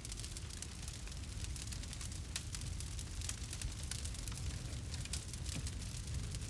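Campfire crackling with many small, irregular pops and snaps, over a steady low noise from the burning wood.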